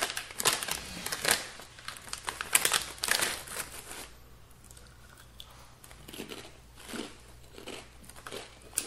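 A bag of salt and vinegar crisps crinkling and crackling as it is handled and opened, busiest in the first four seconds, then softer, scattered rustles.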